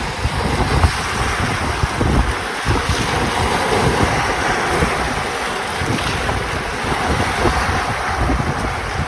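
Caspian Sea waves washing in steadily, with wind buffeting the microphone in gusts.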